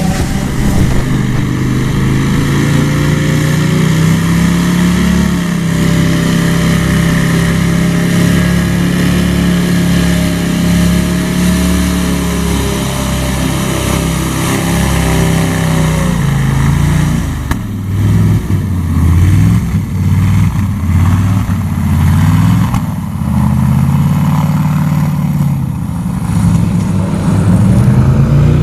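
Airboat's Toyota 3UR 5.7-litre V8 engine and six-blade propeller running under way, the engine note rising and falling gently; about two thirds of the way in the revs start to swing up and down more often.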